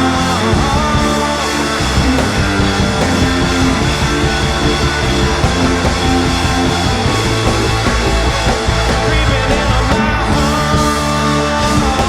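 Live rock band playing. Held chords ring for about the first two seconds and again near the end, with a busier, choppier passage in between.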